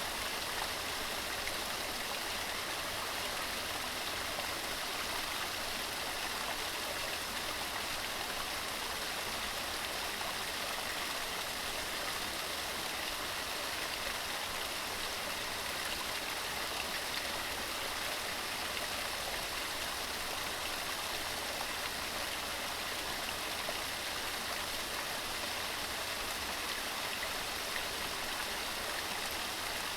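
Waterfall tumbling over rocks: a steady, even rush of falling water with no change.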